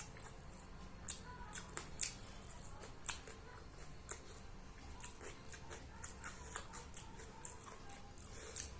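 Close-up eating sounds of someone eating biryani: irregular sharp wet clicks of lip smacks and chewing. They come about once a second at first, then smaller and quicker ones later on.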